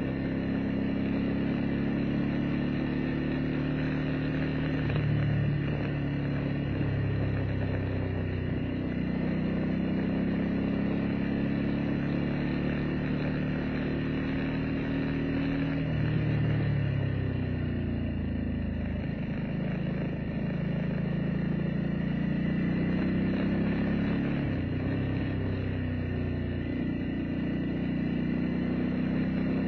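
Vehicle engine running on the move in the rain over a steady hiss of wet road, its pitch rising and falling with speed; it drops noticeably about two thirds of the way through, then climbs again.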